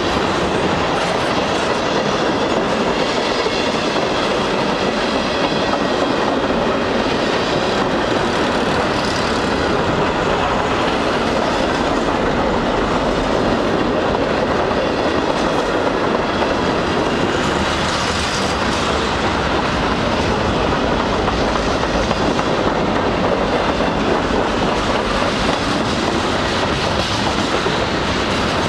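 Freight cars of a long mixed freight train rolling past at close range: a steady, loud rolling noise of steel wheels on rail with clickety-clack over the rail joints.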